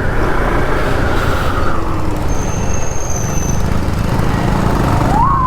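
Motorcycle riding on a hill road: wind rushing over the helmet-mounted microphone over the engine's steady low running. A faint high steady tone sounds briefly about halfway through.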